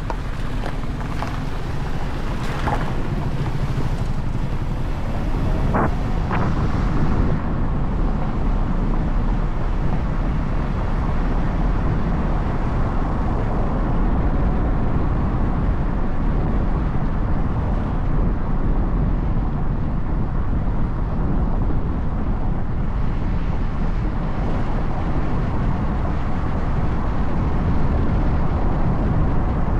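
Steady wind noise on the microphone of a moving motorcycle, a Bajaj Dominar 400, with its engine and road noise running under it.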